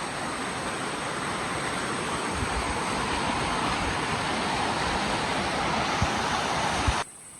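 Waterfall's falling water making a steady rushing noise that swells slightly, with a few low thumps of wind on the microphone. It cuts off abruptly near the end.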